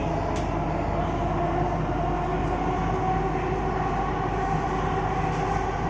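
Delhi Metro train running between stations: a steady rumble with a whine that rises slightly in pitch.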